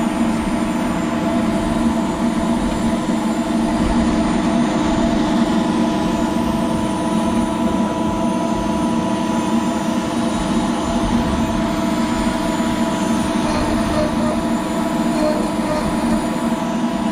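CNC router spindle running steadily while a V-bit carves PVC: a constant machine hum with several held tones over a rushing noise.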